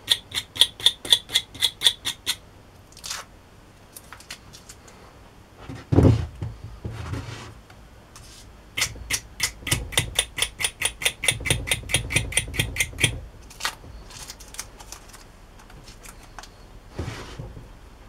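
Snap-off utility knife's blade slider ratcheting: a run of even sharp clicks, about five a second, at the start and again from about nine to thirteen seconds in. There is a dull thump about six seconds in.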